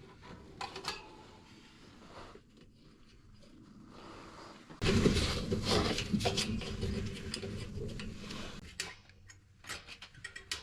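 Hand tools clinking against metal parts of a snowmobile's engine bay. Faint clicks at first, then about five seconds in a sudden louder stretch of metal clinking and rattling that tapers off.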